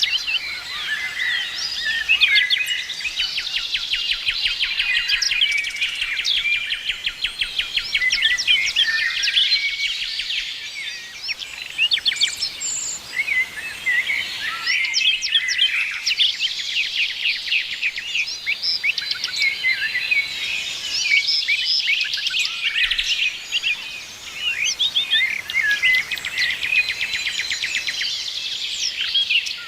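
A chorus of several songbirds chirping and trilling without pause, with overlapping high calls and fast repeated notes.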